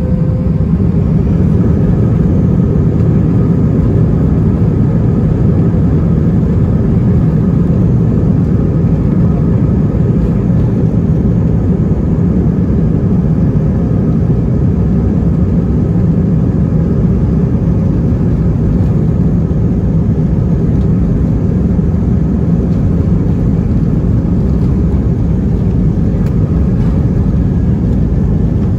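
Steady, mostly low cabin noise from the engines and airflow inside an Airbus A319 airliner, unchanging throughout, with faint steady tones that fade out in the first couple of seconds.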